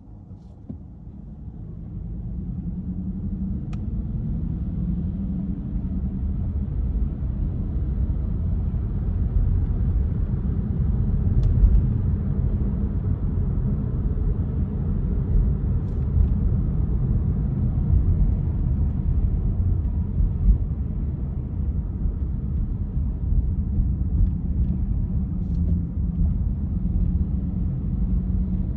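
A car driving on city streets, its low road and engine rumble building over the first couple of seconds and then holding steady, with a few faint ticks.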